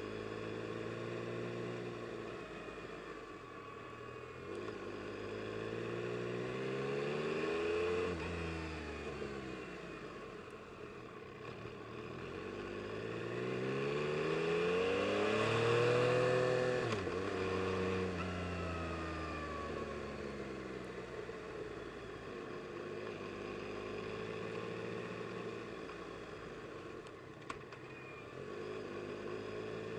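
2022 Yamaha MT-09 SP's three-cylinder engine under way, its revs climbing and falling back in several long sweeps as it accelerates and eases off, loudest about halfway through before the revs drop sharply.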